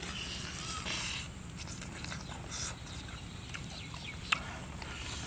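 A person eating roasted piglet meat by hand, biting, tearing and chewing with wet mouth noises. There are short louder bursts about a second in and two and a half seconds in, and a sharp click about four seconds in, over a steady low rumble.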